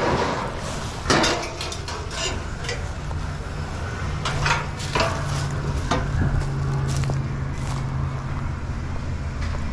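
Scrap metal clanking as pieces are handled and tossed onto a pile, with several separate knocks a second or so apart, over a steady low engine hum.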